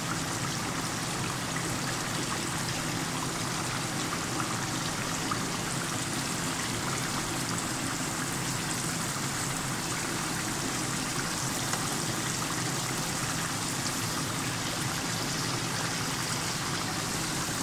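Beef karahi (beef pieces and tomatoes in ghee) sizzling and bubbling steadily in an open pan over a gas flame.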